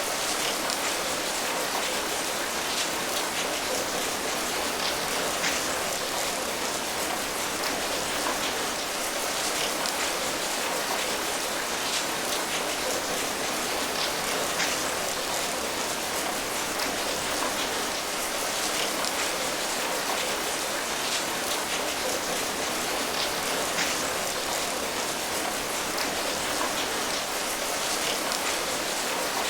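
Steady rain falling, an even patter with scattered individual drops heard throughout.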